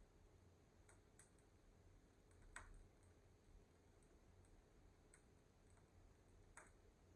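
Faint wood fire crackling in a fireplace: a few sparse, sharp pops, the loudest about two and a half seconds in and another near the end, over a low rumble.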